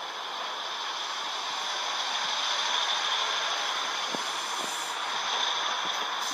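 Class 150 diesel multiple unit running along the platform: a steady rushing noise with a few light clicks about four to five seconds in. It is played back through a screen's speaker, so it has no bass.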